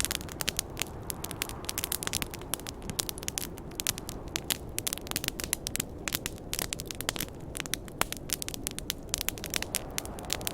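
Wood campfire crackling: frequent irregular sharp pops and snaps over a low steady rush.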